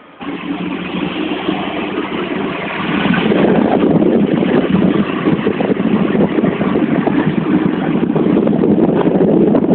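Running noise of a moving Hong Kong double-deck electric tram heard from on board. The dense, even noise comes in abruptly and gets louder about three seconds in.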